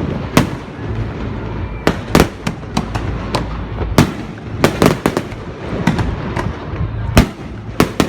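Fireworks going off: a rapid, irregular string of sharp bangs and cracks, several a second, over a continuous low rumble of the display.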